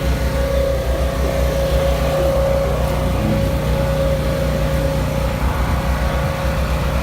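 A car engine running steadily at idle: a low, even rumble with a steady tone held above it.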